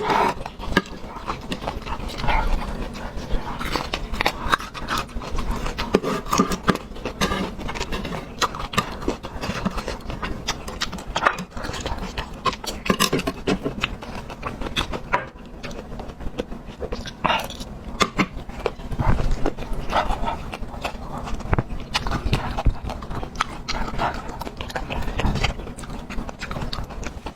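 Close-miked chewing and mouth sounds of a person eating: irregular wet smacks and clicks, many a second, with no steady sound beneath.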